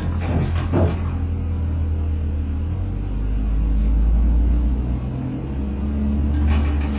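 A 2022 Corvette Stingray's 6.2-litre V8 idling with a low, steady rumble, which grows a little louder around four seconds in.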